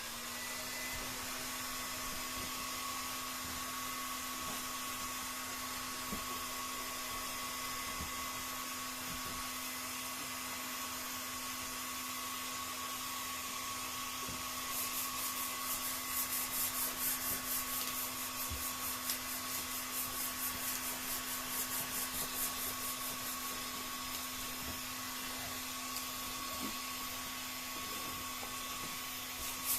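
Heat gun running with a steady hum while it softens the glue holding a PVC boat's transom. About halfway in, a fast rhythmic scraping joins it.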